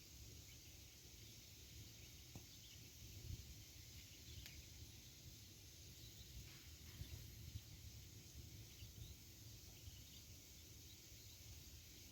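Very faint campfire: wood burning with a low rumble and a few scattered small crackles and pops.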